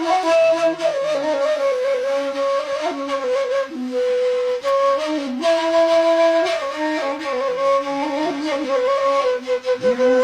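Flute melody of Bedouin folk music, playing held and ornamented notes without voice.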